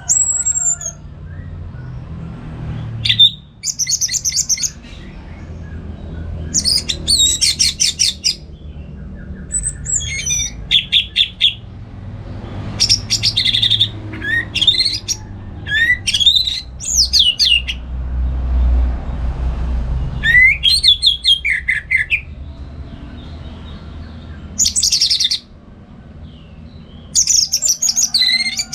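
Orange-headed thrush singing: a string of short, varied phrases of rapid high whistles, trills and rising and falling sweeps, each a second or so long with brief pauses between, over a low steady background hum.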